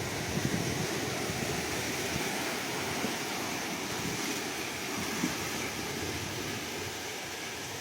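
Ocean surf: waves washing on the shore in a steady, even rush.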